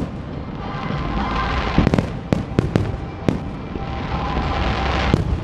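Aerial fireworks going off: a quick run of sharp bangs about two seconds in, another about a second later and one more near the end, over a steady wash of noise from the display.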